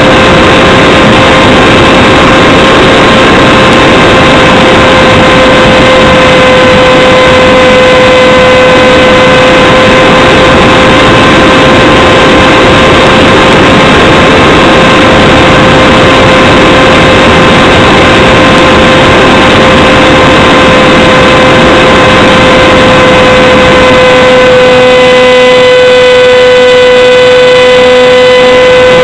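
Radjet 800 RC plane's electric motor and pusher propeller whining at a steady pitch, recorded by a camera on the plane, over heavy wind rush on the microphone. Near the end the whine picks up extra overtones and a lower tone for a few seconds.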